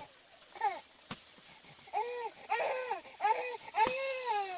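A young child crying in a series of short, high wails that rise and fall, about five of them, the last one the longest. A sharp click sounds about a second in.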